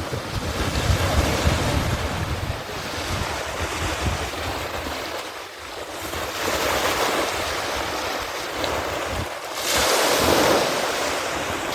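Rough sea washing and splashing with wind buffeting the microphone, heaviest in the first couple of seconds; the water noise swells louder about six and ten seconds in.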